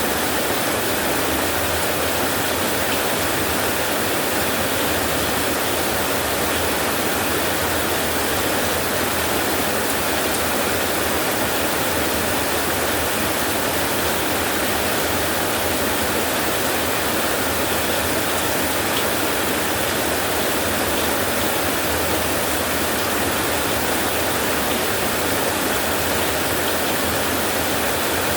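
Steady rainfall, an even unbroken hiss with no distinct drops or thunder standing out.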